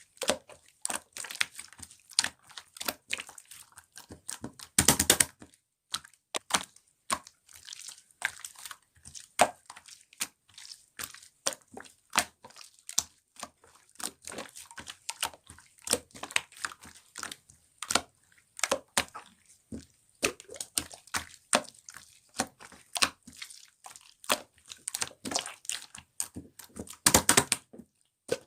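Slime being squished and stretched by hand, making a steady string of sticky clicks and small pops, with two longer crackling bursts about five seconds in and near the end.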